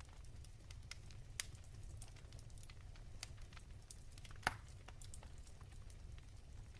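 Wood fire crackling softly: scattered small snaps and ticks of burning firewood, with two louder pops, about one and a half seconds in and again about four and a half seconds in, over a low steady rumble.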